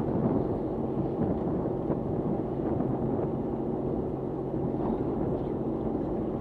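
Fishing boat's engine running with a steady hum, with wind and water noise.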